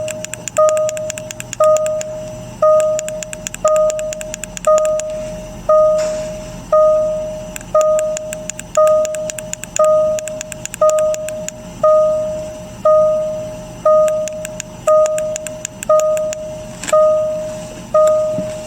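Jaguar XJ (X351) dashboard warning chime sounding over and over, about once a second, each chime a single tone that fades before the next, with fast light ticking behind it.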